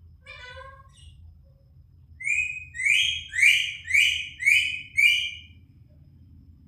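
Pet parrot calling: a short call just after the start, then six loud harsh squawks in quick succession, about two a second.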